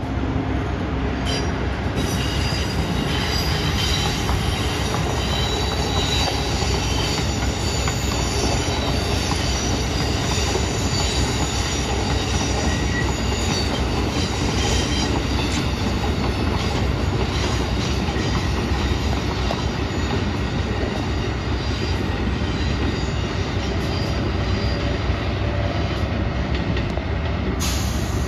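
Train rolling over yard track: a steady rumble of wheels on rail, with high-pitched wheel squeal that is strongest in the first half and fades later.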